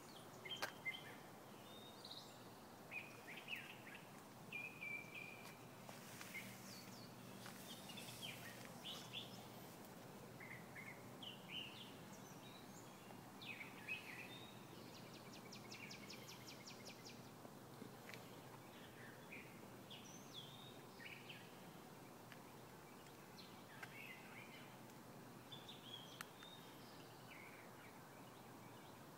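Songbirds chirping and calling faintly, short scattered notes over a quiet outdoor hush, with one rapid even trill lasting about a second and a half near the middle.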